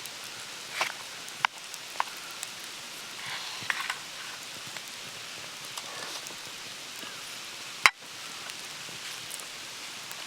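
Eating sounds: scattered light clicks and taps of utensils against a dish, with one sharper click near the end. A steady hiss with faint crackle runs under it.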